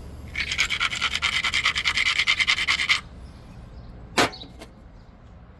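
Rapid scraping of an abrading stone along the edge of an obsidian preform, about ten strokes a second for nearly three seconds: platform preparation before a percussion strike. About four seconds in comes one sharp knock of a percussion blow on the obsidian.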